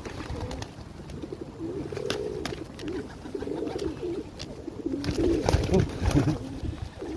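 Pigeons cooing in a group, with scattered sharp clicks and, from about five seconds in, louder low thuds, typical of birds pecking at feed and moving about.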